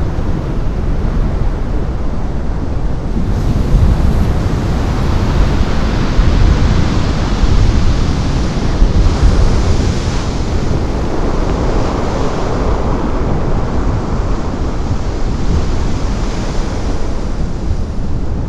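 Heavy Atlantic surf: big waves breaking and churning white water as a loud, steady rush that swells up a few times, with wind buffeting the microphone.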